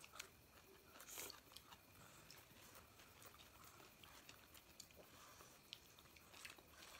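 Faint chewing and small wet mouth clicks of people eating momos, with scattered short clicks.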